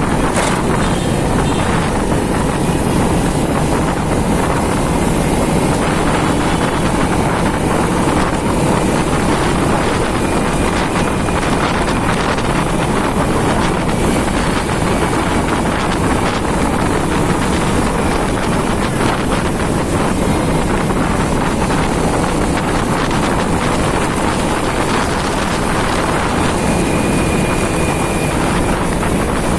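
Wind rushing over the microphone of a moving motorcycle, with the bike's engine and street traffic underneath in a steady mix.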